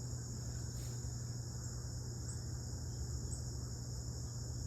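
Steady, unbroken high-pitched chorus of insects, over a steady low hum.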